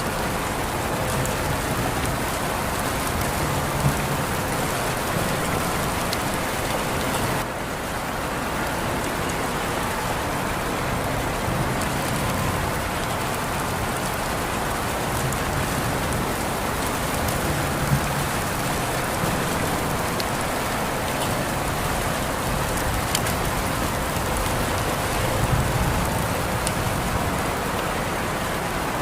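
Steady rain falling: an even hiss with scattered sharper drop taps. The level dips briefly about seven and a half seconds in.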